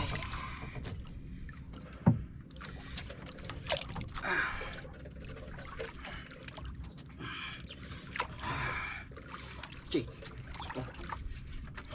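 Water sloshing against a small boat's hull over a steady low rumble, with a few short hissing surges and a couple of sharp knocks.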